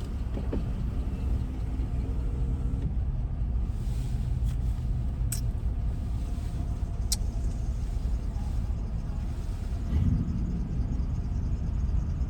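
Steady low rumble of a car heard from inside the cabin, with the heater running and a window open. Two brief clicks about five and seven seconds in.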